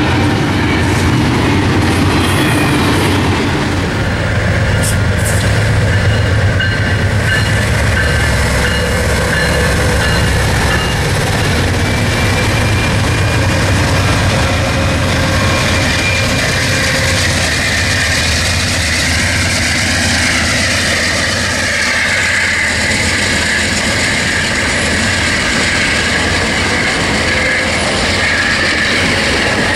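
Diesel-hauled trains passing close by, a double-stack container freight and then passenger trains, with a steady loud rumble of locomotive engines and wheels running over the rails.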